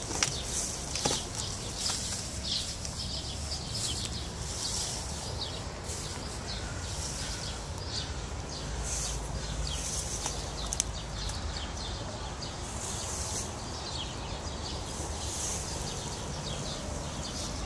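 Small birds chirping repeatedly, short high calls throughout, over a steady low background rumble, with a few light clicks.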